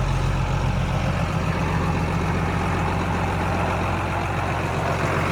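John Deere 8220 tractor's six-cylinder diesel engine running steadily, heard from inside the cab with the air-conditioning blower going.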